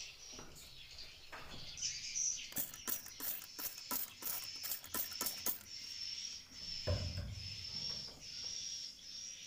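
Swiftlets twittering in a steady, high, wavering chirp inside a swiftlet house. A fast run of sharp clicks comes about two and a half seconds in and lasts about three seconds.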